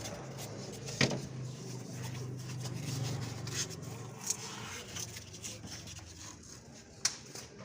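A steady low mechanical hum, fading toward the end, with a sharp knock about a second in and another near the end.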